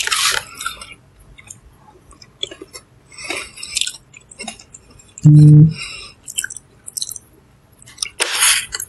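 Close-up mouth sounds of a person eating: chewing with small wet clicks and smacks, a louder hiss at the start and another near the end, and a short hummed "mm" about five seconds in.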